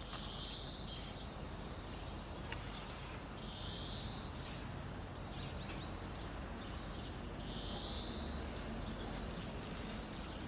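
A bird repeats a short, high, rising call three times, about every three and a half seconds, over steady outdoor background noise, with a few sharp clicks in between.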